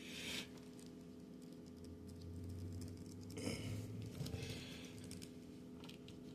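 Faint clicks and rustles of a plastic G.I. Joe action figure and its skis being handled and set on a figure stand, with a couple of brief soft rustles near the start and about halfway, over a steady low hum.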